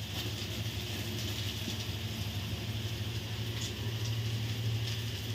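Capsicum and onion sizzling in a steel kadai, stirred with a metal ladle that scrapes the pan with a few faint clicks, over a steady low hum.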